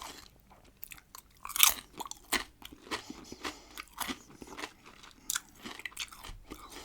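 Close-miked bites and crunching chews of a pickled cucumber, a run of sharp wet crunches with one big crunch about one and a half seconds in.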